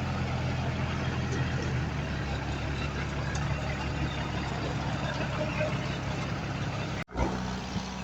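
Diesel engine of heavy earthmoving equipment running steadily, a low rumble with clatter over it. The sound drops out for a moment about seven seconds in, then the engine is heard again.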